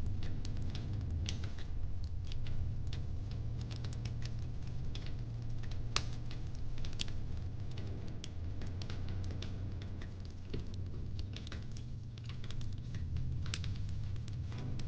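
Fire pit fire crackling: irregular sharp pops and snaps, a few a second, over a steady low rumble.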